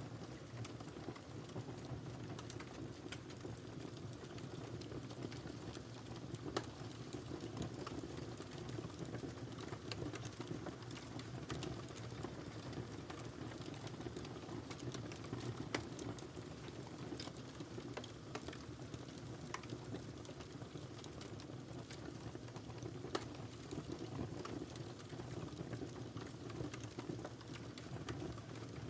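Wood fire crackling: a steady low rush of burning with scattered sharp pops and snaps. A few louder pops stand out, about six, sixteen and twenty-three seconds in.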